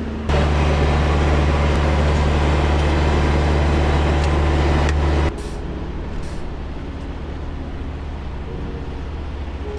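Semi-truck diesel engine running loud and steady for about five seconds, then cutting off abruptly to a quieter, steady engine running.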